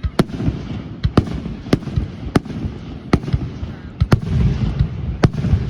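Fireworks going off: a run of sharp bangs, roughly one or two a second, over a steady low rumble.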